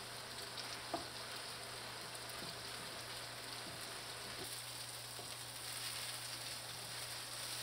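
Green onion pancakes (pajeon) sizzling in oil on an electric griddle: a steady frying hiss, with a light tap about a second in.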